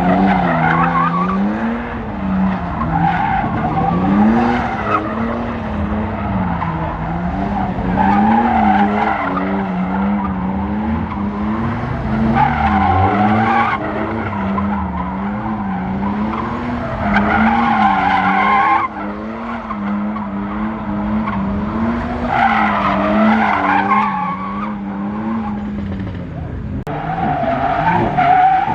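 A drifting car's engine revving up and down over and over, with its tyres squealing in repeated bursts.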